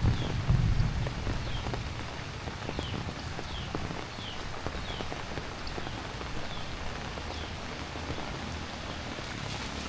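Heavy rain falling, with many fine drop clicks pattering on nearby surfaces over a steady hiss. A short, high, falling chirp repeats about every second above the rain, and a low rumble swells in the first second.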